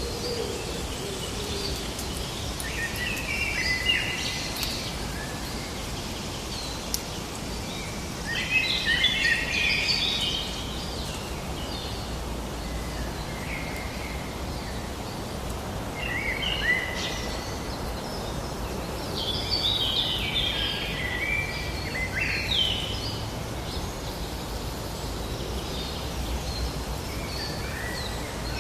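Songbirds singing in four short bursts of quick chirping phrases over a steady background hiss.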